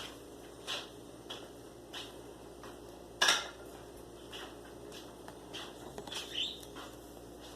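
Pet bird pecking and tapping at the camera with its beak: irregular sharp clicks, with one much louder knock about three seconds in.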